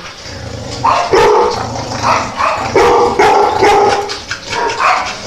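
Dog barking repeatedly, a string of loud barks about a second apart.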